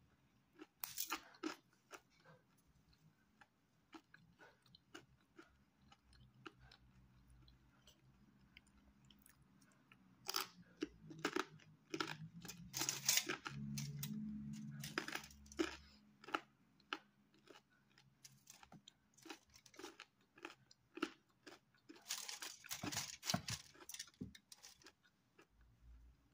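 Crisp pizza crust being chewed, with scattered clicks of the mouth and two spells of dense crunching, about ten seconds in and again near the end.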